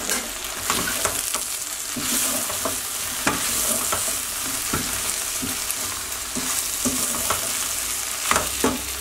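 Cut okra frying and sizzling in a steel pot, stirred with a wooden spoon that knocks and scrapes against the pot at irregular moments.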